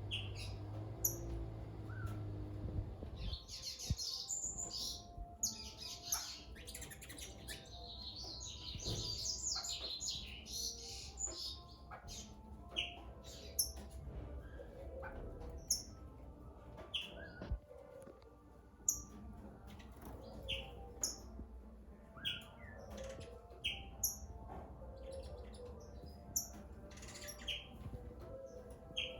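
Several songbirds singing at once, a dense warbling chorus for the first ten seconds or so, then thinning to short, sharp calls repeated every second or two.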